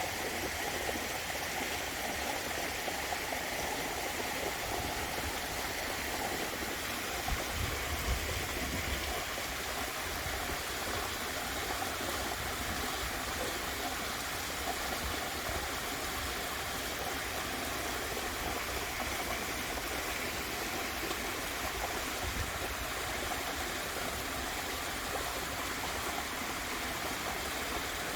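Waterfall running steadily, an even rush of falling and splashing water, with a short low rumble about eight seconds in.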